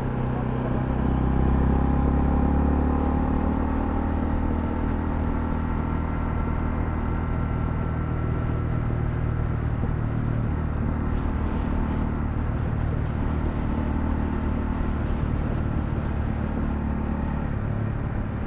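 Honda CL250's single-cylinder engine running on the move. It pulls harder for a couple of seconds about a second in, then holds steady cruising revs.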